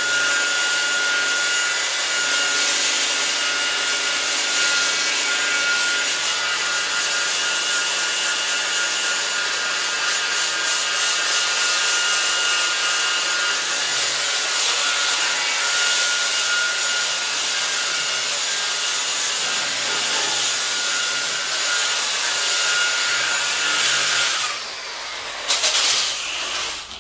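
Power sander with a sanding disc grinding paint and rust off the mower's metal: a steady motor whine over a coarse hiss. It cuts out about two and a half seconds before the end, runs again in a short burst, then stops.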